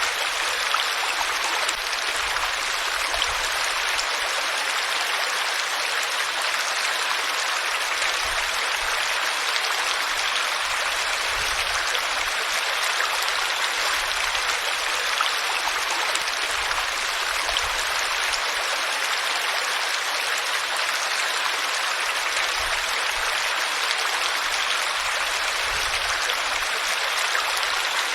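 Flowing water, a steady even rush like a stream, unchanging throughout.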